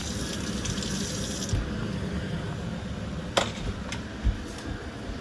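Toy cars rolling on a plastic ramp with a steady rumble, and a few sharp plastic clicks and knocks in the second half.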